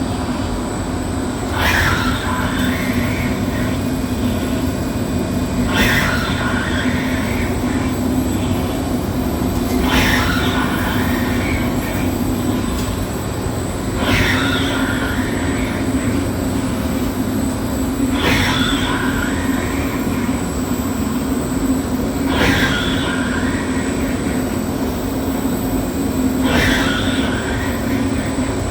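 Machine tool slowly cutting hardened flats: over a steady motor hum, the cutter strikes the work and squeals for about a second, dipping then rising in pitch, once every four seconds or so, seven times, at slow spindle speed and very slow feed.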